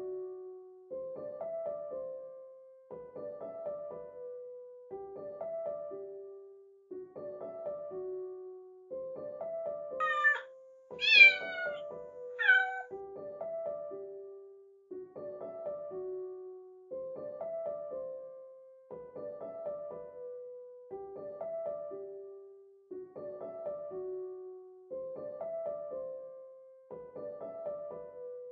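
A kitten meowing three times in quick succession about ten seconds in, the middle meow the loudest, over light piano-like background music repeating a short phrase about every two seconds.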